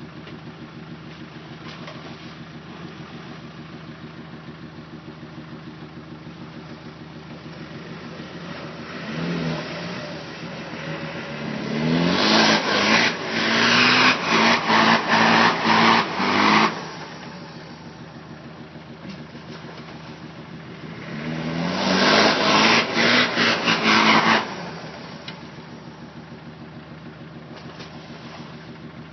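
Land Rover Discovery diesel engine running low and steady, then revved hard twice for several seconds at a time, each time dropping back suddenly to a low run. The revving is choppy and uneven, with quick surges in engine speed.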